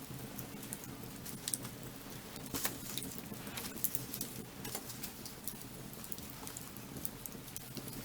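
Burning firewood crackling: irregular sharp pops and snaps of varied strength, a few louder ones about a second and a half, two and a half and four seconds in, over a steady low rush of the flames.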